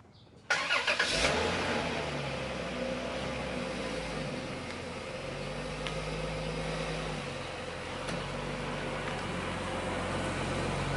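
Car engine starting about half a second in, flaring briefly, then running steadily with its pitch shifting a little as it is driven slowly.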